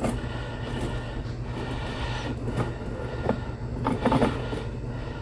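Sewer inspection camera's push cable worked in a deteriorated cast iron drain pipe: scattered knocks and scrapes over a steady low hum.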